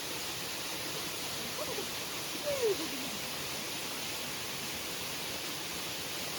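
Steady rushing of falling water from a waterfall, an even hiss with no breaks. A short, falling, voice-like sound comes about two and a half seconds in.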